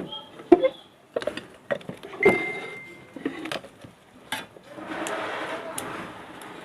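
Metal parts of a table fan's motor being handled and fitted: a series of sharp clicks and knocks, one ringing on briefly like struck metal, then a steady rushing noise from about five seconds in.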